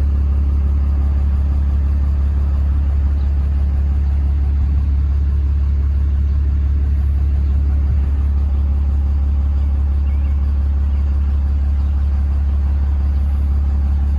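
An engine running steadily at idle, a low, even drone that does not change.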